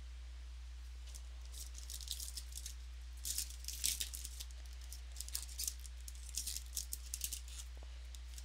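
Crinkling and clicking of Topps Strata football card packs and cards being handled, in irregular bursts from about a second and a half in to near the end, loudest around four seconds in.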